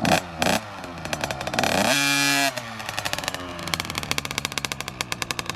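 Two-stroke dirt bike engine running, revved up sharply about two seconds in, then dropping back to a slower, pulsing run.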